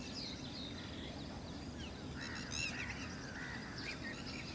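Faint bird calls: many short chirps, with a busier cluster of calls about two to three seconds in, over a steady low outdoor rumble.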